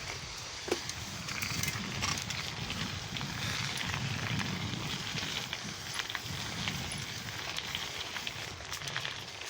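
Riding a lowrider bicycle: tyres rolling on pavement under a fluctuating low rumble of wind on the microphone, with scattered light clicks and rattles from the bike.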